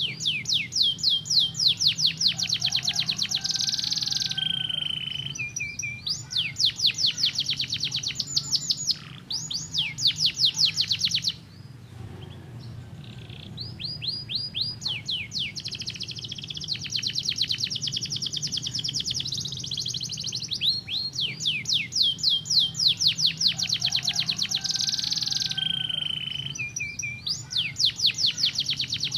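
Domestic canary singing long, rapid trills of quickly repeated sweeping notes, changing from one trill to the next, with a short pause about twelve seconds in. A steady low hum runs underneath.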